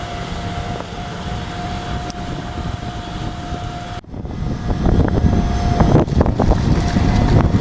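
Excavator engine running with a steady whine. About four seconds in the sound cuts to louder, heavier rumbling with scattered clanks and knocks.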